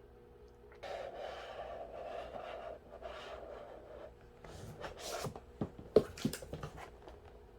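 Packaging being handled: a rasping rustle in two stretches, then a run of crinkles and clicks with one sharp click about six seconds in.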